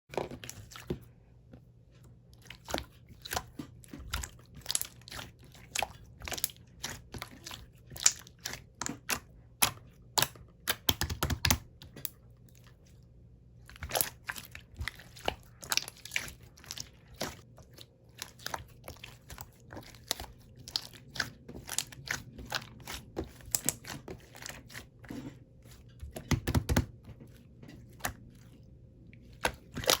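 Slime being squeezed and pressed by hand, giving a dense, irregular run of crackling clicks and pops, with a couple of deeper squelches about a third of the way in and again near the end.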